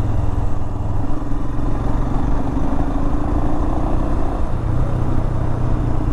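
Royal Enfield Himalayan's single-cylinder engine running steadily while the motorcycle is ridden. The engine note eases about a second in and picks up again a little past halfway.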